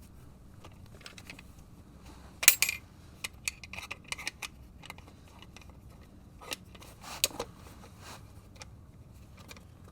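Scattered small metallic clinks and taps of tools and parts being handled, the loudest a sharp clack about two and a half seconds in, with lighter clicks after it.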